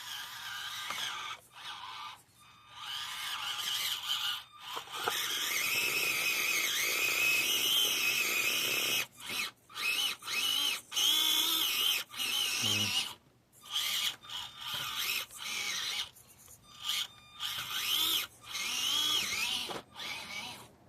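Axial SCX24 mini RC crawler's small electric motor and gears whining in repeated bursts of throttle, the pitch wavering up and down, with short pauses between bursts.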